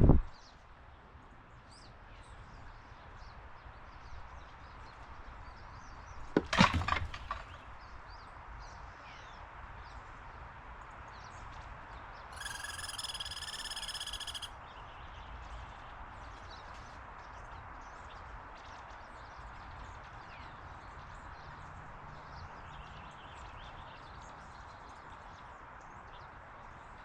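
Outdoor backyard ambience with steady hiss and faint, scattered high chirps of small birds. A sharp wooden-sounding clatter comes about six and a half seconds in, and a steady pitched tone with overtones holds for about two seconds near the middle.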